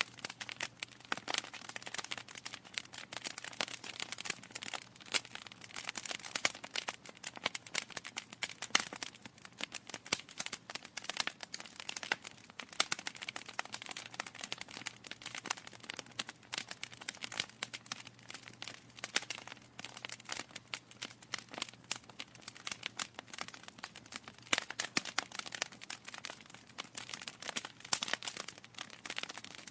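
Burning logs crackling in a fireplace: a dense, irregular run of small pops and snaps, with a few louder snaps among them.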